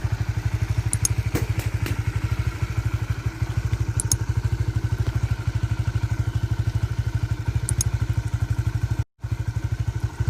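Honda CB150R's single-cylinder engine idling steadily, with an even, rapid pulse. The sound drops out for a split second near the end.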